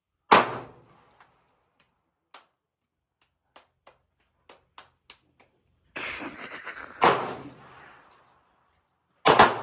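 Pistol shots echoing in an indoor range: one shot just after the start, another about seven seconds in, and a quick pair near the end, with faint clicks in between.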